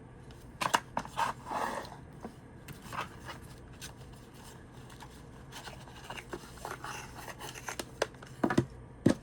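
Hands handling a small cardboard tarot deck box and its cards: scattered taps, scrapes and light rustling, with a few sharper clicks about a second in and again near the end.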